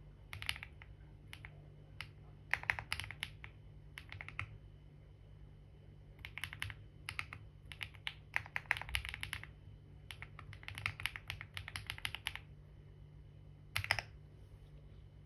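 Typing on a computer keyboard: runs of keystrokes in bursts of a fraction of a second to about two seconds, with short pauses between them. A faint steady low hum sits underneath.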